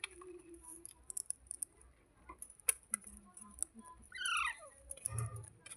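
Baby parrot giving one short squawk that falls in pitch about four seconds in, among scattered sharp clicks and taps.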